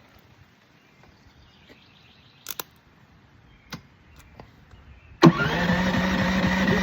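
DuroMax XP9500iH inverter generator running on propane starting up suddenly about five seconds in, after a couple of faint clicks, then running steadily.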